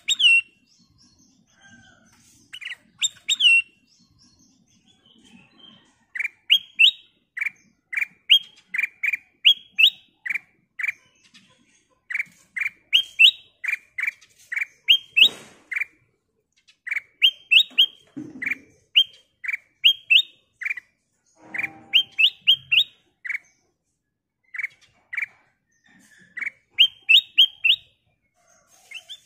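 Black-crested bulbul singing: quick runs of short, bright rising chirps, several notes to a phrase, with brief pauses between phrases. A single short knock about halfway through.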